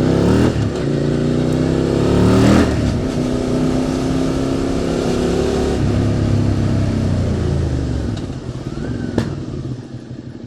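QJ Motor SVT650X motorcycle with an Arrow Racetech exhaust accelerating, its revs climbing and dropping at upshifts about half a second and two and a half seconds in. It then holds a steady pace, and the revs fall as the throttle is rolled off near the end, with a sharp click about nine seconds in.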